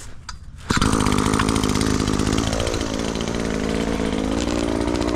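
Chainsaw running, starting abruptly under a second in; its pitch dips and recovers about two seconds later, then holds steady.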